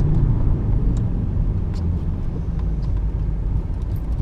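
Steady low road and tyre rumble inside a 1995 BMW E36 318i on the move. The rear nearside wheel bearing is still worn, and the owner expects it to keep making a noise; with the offside one replaced, he finds the noise only slightly better.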